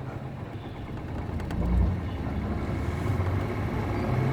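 Bus's MD92TJ diesel engine pulling away from a stop, getting louder as it takes up load in a low gear.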